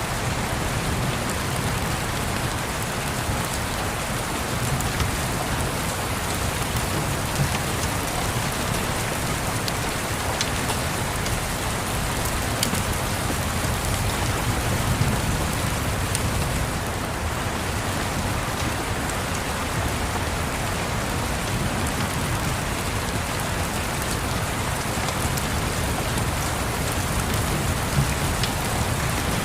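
Steady, even rain pattering, with a low continuous rumble underneath and occasional faint ticks.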